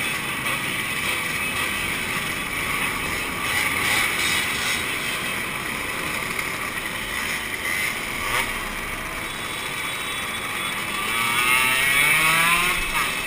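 Two-stroke motorcycle engines running, with one engine revving up, its pitch rising, a couple of seconds before the end.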